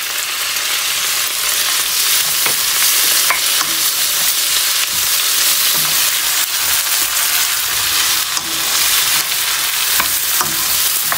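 Chopped tomatoes and sliced onions sizzling in hot oil in a non-stick wok, stirred with a spatula that gives a few light taps and scrapes against the pan. The tomatoes have just gone in and are frying down to soften.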